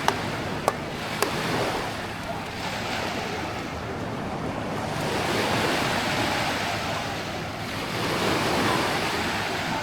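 Small waves breaking and washing up on a sandy shore, swelling and easing in slow surges, with three sharp clicks in the first second and a half.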